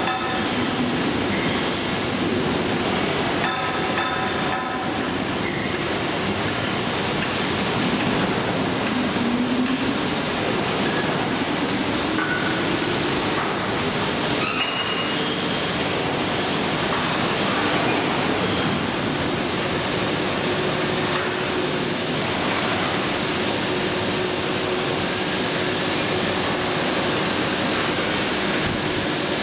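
A train in motion: a steady rushing rail noise, with a short high pitched tone about four seconds in.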